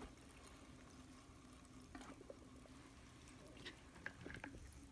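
Near silence: rinse water faintly trickling out of a mini washing machine's drain into a sink, with a few light clicks about two seconds in and near the end.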